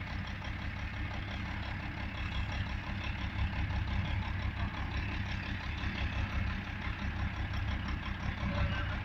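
Diesel generator set's engine running steadily with an even low rumble, no change in speed.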